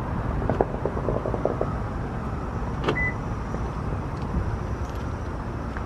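A quick run of about eight sharp distant pops about half a second in, which sounded to the listener like fireworks or possibly gunfire. Then, near the middle, a click and a short beep like a vehicle's remote lock chirp, over steady outdoor background noise.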